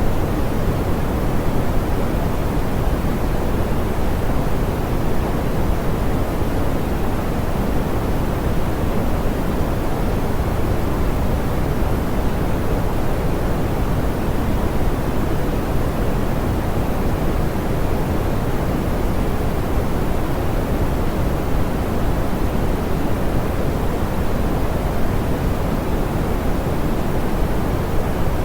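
Steady, soft pink noise: an even, unchanging hiss with most of its weight in the low end, thinning toward the top.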